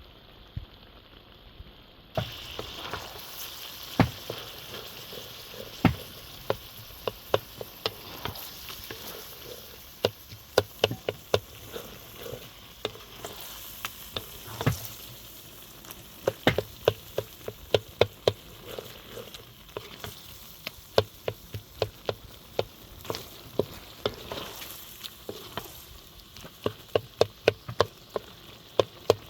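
Food frying in oil in a pan: a steady sizzle that starts suddenly about two seconds in. Irregular sharp knocks of a spoon stirring against the pan sound over it.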